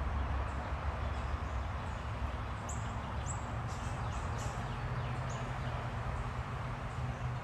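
Small birds giving a few short, high chirps in the middle stretch, over a steady low rumble and hiss.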